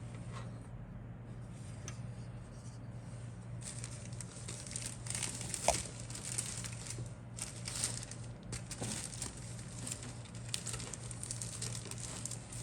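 Plastic or paper packaging of a model kit crinkling as it is handled, in irregular crackling bursts that start about four seconds in, over a steady low hum.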